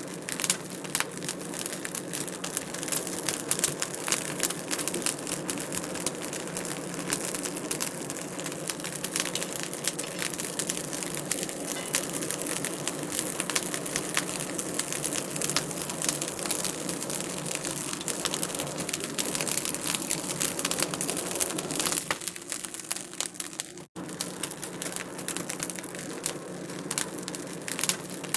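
Wood fire crackling in a fireplace: a dense, steady run of small crackles and pops, cutting out for an instant near the end.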